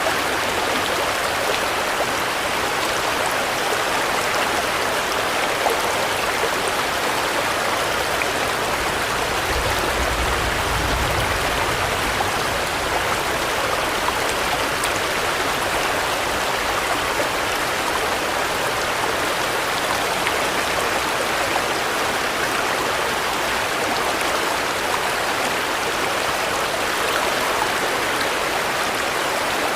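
Steady rain falling, an even hiss with no breaks, with a brief low rumble about ten seconds in.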